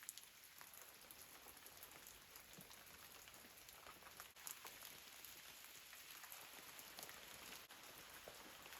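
Faint rain: a light, even hiss with scattered small drip ticks.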